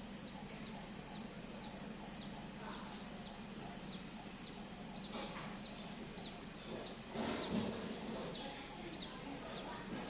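Tropical forest ambience: a steady high insect drone, with a small bird's short, high, falling chirp repeated about twice a second. A brief louder rustle about seven seconds in.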